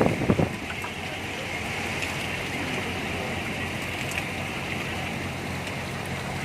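Steady rain falling on and around a boat, with the boat's engine humming low underneath. A couple of low thumps come in the first half second.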